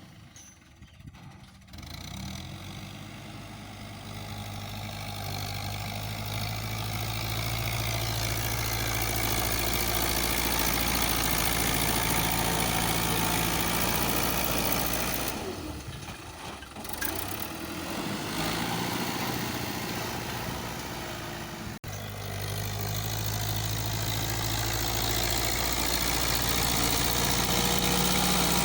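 Fiat 640 tractor's diesel engine running steadily while working a front blade. It grows louder over the first several seconds and has a short lull about halfway through.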